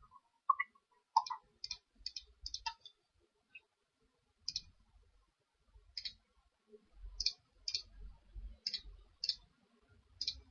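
Computer mouse button clicking, about a dozen short, sharp clicks at irregular intervals, a few in quick pairs.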